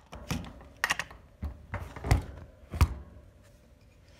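Irregular hard taps and knocks, about seven in three seconds, as hamster food and items are handled in and around a small-pet cage.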